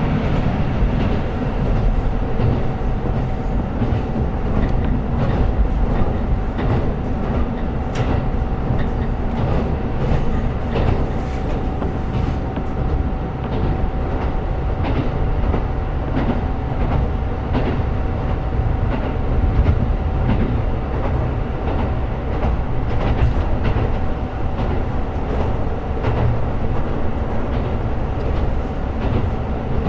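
KiHa 125 diesel railcar running along the line, with a steady drone and a held whine, and frequent rail-joint clicks under the wheels.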